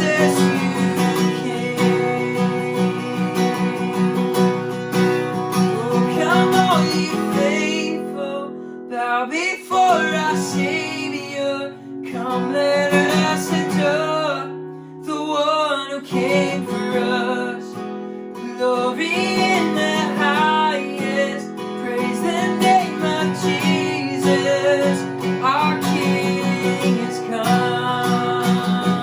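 Worship band music led by a strummed acoustic guitar, playing a passage without sung words.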